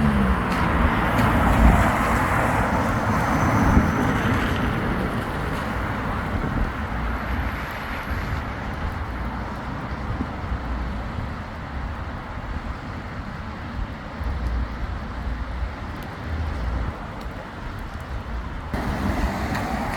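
Road traffic passing on a wet road: engine rumble and tyre hiss, loudest in the first few seconds as a vehicle goes by, then easing off.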